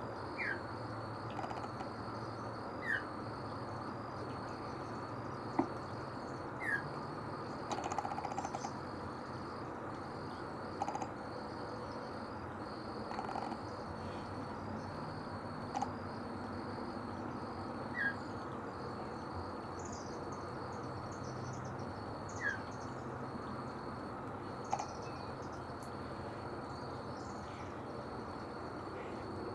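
Northern mockingbird giving an unusual call: short, single falling notes repeated every few seconds. A steady, pulsing insect trill runs underneath.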